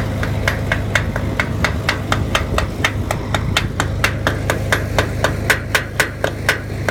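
Rapid, even metallic tapping, about six strikes a second, over a steady low hum from the running welder.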